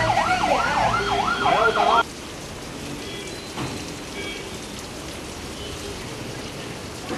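An emergency-vehicle siren in a fast up-and-down yelp, about three sweeps a second, cuts off abruptly about two seconds in. After that, the steady hiss of heavy rain.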